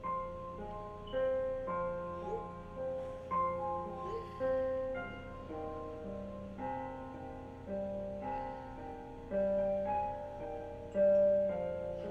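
Slow, quiet piano music: single notes and chords struck about once a second, each ringing on.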